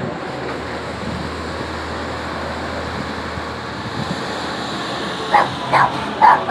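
A dog barks four times in quick succession about five seconds in, over a steady background drone of engine noise.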